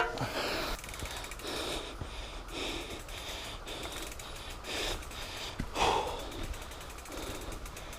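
A mountain biker breathing hard, a breath about once a second, over the bike's drivetrain noise. Near the end the rear hub's freewheel ticks rapidly as the bike coasts.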